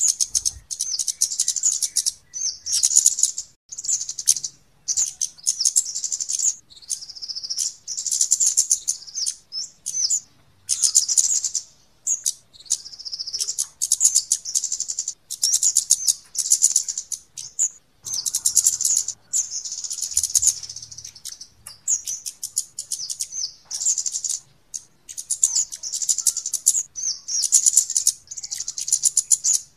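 Recorded lure call of kemade birds: rapid, thin, high-pitched chips packed into bursts a second or two long, repeating over and over with short gaps.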